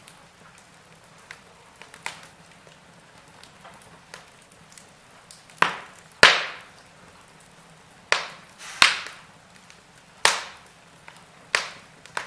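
Wood fire crackling: small scattered ticks, then about six loud, sharp pops in the second half, each dying away quickly.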